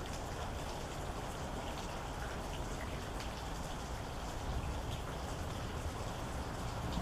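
Steady rain falling, with scattered single drops ticking against a surface.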